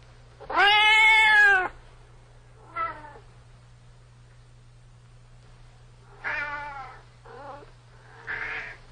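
Domestic cat meowing: one long, loud meow about half a second in, a short call a second later, then three shorter meows in quick succession near the end.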